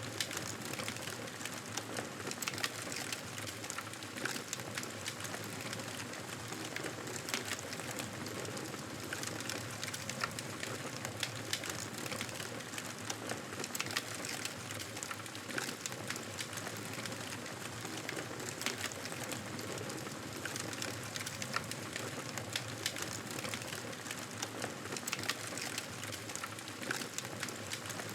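Campfire burning: a steady hiss dotted with frequent sharp crackles and pops.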